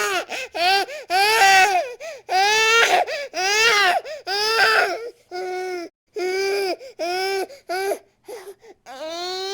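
A baby crying hard in a string of wailing cries, each lasting about half a second to a second, with short gasping breaks between them. The cries are loudest in the first half and a little softer later.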